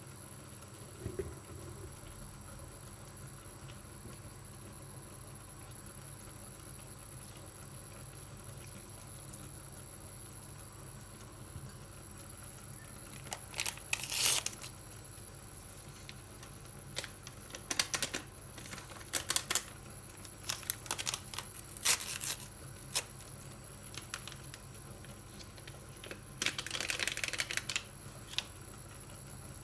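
Quiet room, then from about halfway in, scattered bouts of crinkling and rustling with small knocks and clicks as things are handled.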